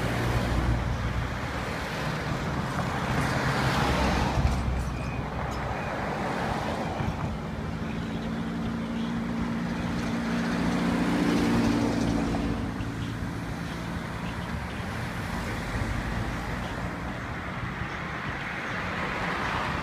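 Road traffic: motor vehicles running and passing on the road, with engine hum that swells twice, about four seconds in and again near the middle.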